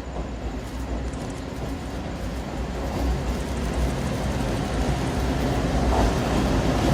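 A train pulling into a station with transferred railcars in tow, its steady rumble growing louder as it approaches.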